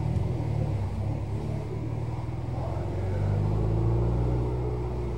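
A car's engine running at low speed as the car drives slowly by, a low hum that grows louder about three seconds in.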